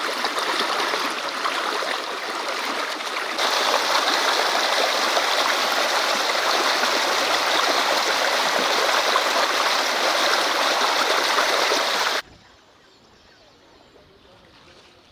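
Rushing floodwater from the flooded Nyando River, a loud steady rush. It gets louder and brighter about three seconds in and cuts off suddenly near the end, leaving only a faint background.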